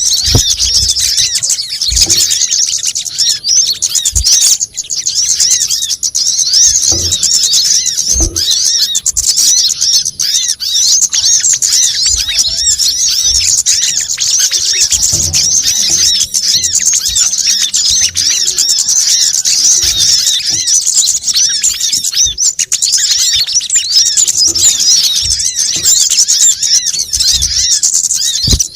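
Small songbirds chattering and chirping without a break in quick, high-pitched notes, a bird-lure recording of noisy, excited calls meant to draw in sunbirds and similar small birds. A few soft low thumps sound now and then.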